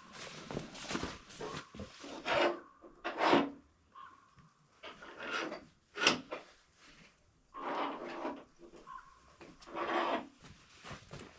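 Freshly sawn spruce boards scraping and rubbing against wood as they are handled, in a string of irregular rasping strokes.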